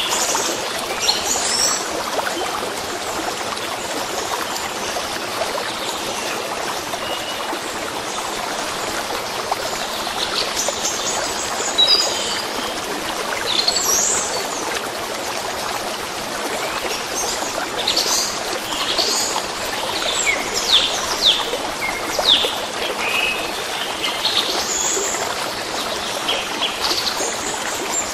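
A small stream trickling steadily over stones while songbirds chirp and twitter in quick calls, busier in the second half.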